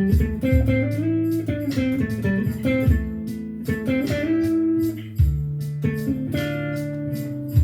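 Guitar playing a blues: plucked single-note lines over held bass notes, with strong string attacks on the beat.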